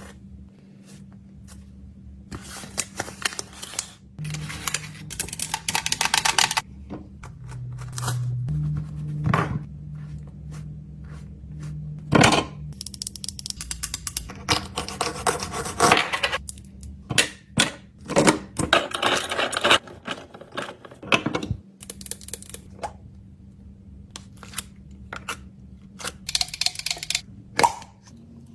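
Small objects and packaging being handled and packed: a string of sharp clicks and taps with several rustling, crinkling stretches, over a low steady hum.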